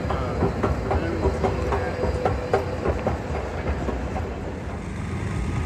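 Amtrak passenger train running on the rails: a steady rumble, with a quick run of clicks and clacks from the wheels over the track in the first few seconds that then eases off.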